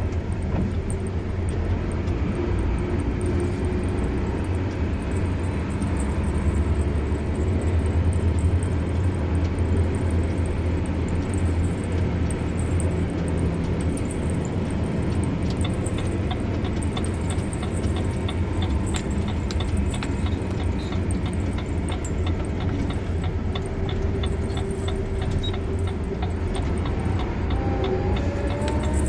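Car driving along a road: a steady low rumble of engine and tyre noise, with a brief rising tone near the end.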